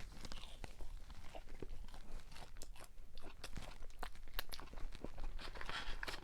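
A person chewing crunchy fried food with many small crackling crunches, louder near the end.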